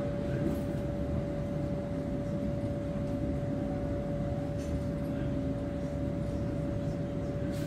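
Steady rumble of a regional train rolling slowly past a station platform, heard from inside the carriage, with a hum held on one pitch throughout.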